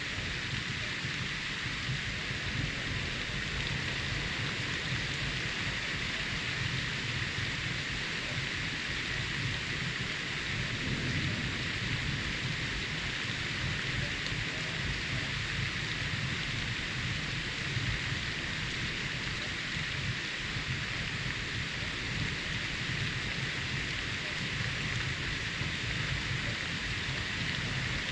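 Steady rain with low rolling thunder rumbling underneath, the rumble swelling briefly about eleven seconds in.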